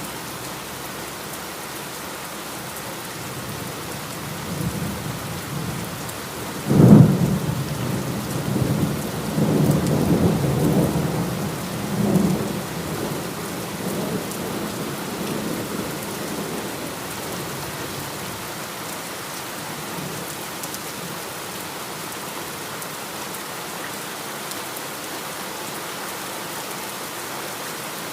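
Steady heavy rain falling, with a sudden thunderclap about seven seconds in that rumbles on for several seconds before fading back to rain alone.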